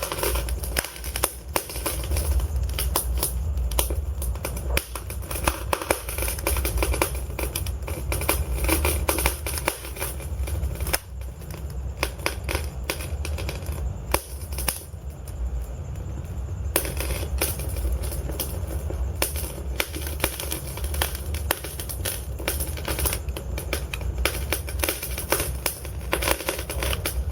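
Wood fire in a fireplace crackling and popping, with many sharp snaps over a steady low rumble of the flames. The crackling thins out for several seconds around the middle.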